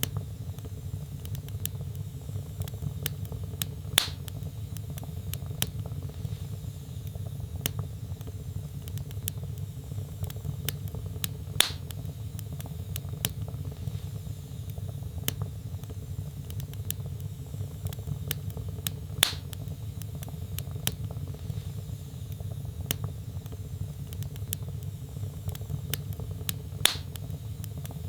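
Wood fire in a fireplace, crackling steadily over a low, even rumble of flames, with many small clicks and four louder, sharp pops of burning logs spaced evenly about seven and a half seconds apart.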